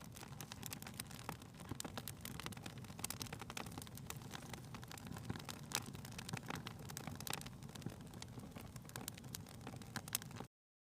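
Fire crackling in a fireplace: irregular small pops and snaps over a low, steady rumble, cutting off suddenly near the end.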